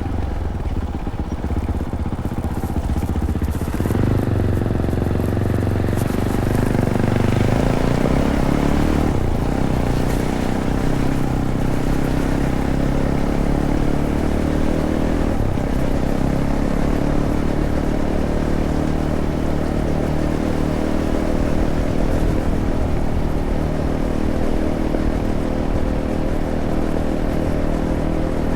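Fantic Caballero 500's single-cylinder engine running through its stock Arrow exhaust while riding a trail; the revs change about three to four seconds in, climb again around eight seconds, then hold fairly steady. Occasional knocks and rattles from the bike over rough ground.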